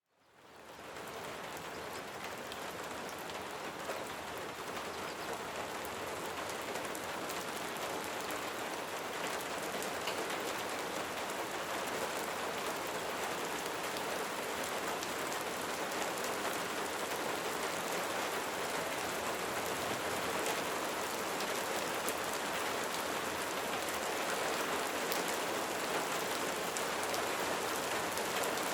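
Light rain falling steadily: an even hiss of raindrops with scattered single drop ticks, fading in over the first second and growing slightly louder.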